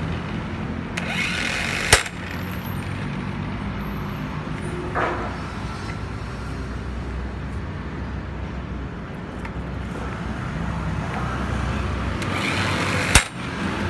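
Two sharp knocks, about eleven seconds apart, from tool work on a KYMCO G3 scooter's clutch and drive, over a steady low hum.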